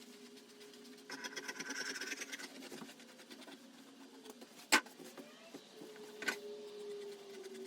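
Upholstery sewing machine stitching in a short run of rapid ticks about a second in, over a steady hum, followed by two sharp clicks.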